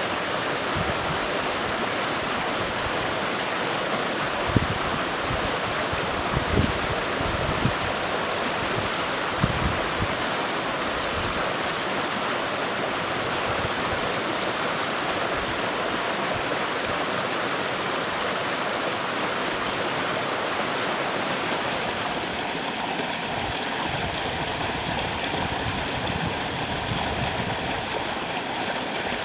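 Stream water flowing steadily, with a few soft low knocks in the first ten seconds and faint high ticks here and there.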